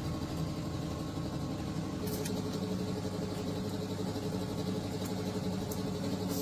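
An old tractor engine running steadily at idle, with a few light clicks from about two seconds in.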